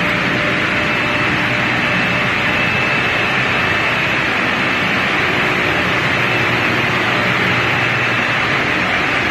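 Trane CenTraVac centrifugal chillers running steadily: a loud, even machine noise with a faint high whine over a low hum.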